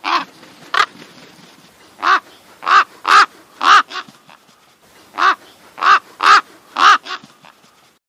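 American crow cawing: two caws, then two runs of four caws about half a second apart, with a pause between the runs.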